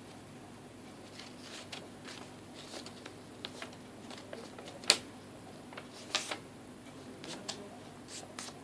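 Small handling noises: scattered light clicks and rustles, with one sharp click about five seconds in and a couple more a second later.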